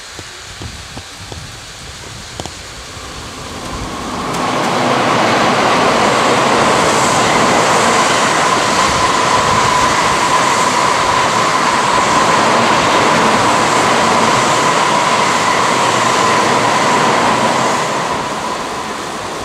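N700-series Tokaido Shinkansen train running along the station track: the rushing noise builds about four seconds in, holds steady with a thin high tone running through it, and fades near the end.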